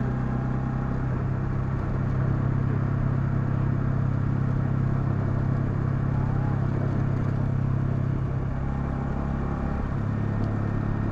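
Honda CL250's single-cylinder engine running at a steady cruise. Its note steps up slightly about a second in and drops near the end.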